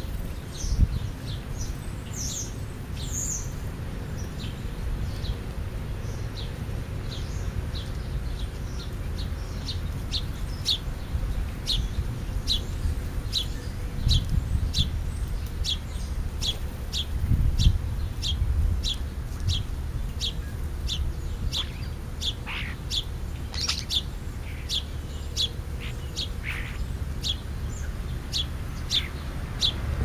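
A bird chirping over and over: short high chirps a little more than one a second, with a couple of longer falling calls about two-thirds of the way through, over a low rumble.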